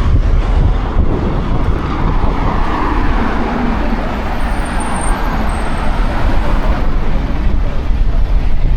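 Steady road traffic noise from passing cars, a continuous low rumble.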